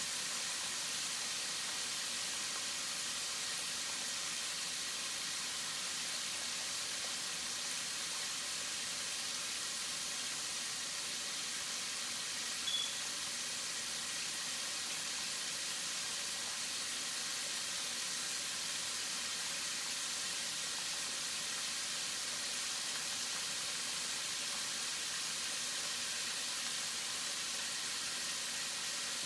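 Chicken wings frying in a skillet: a steady sizzle, with one small pop a little before halfway through.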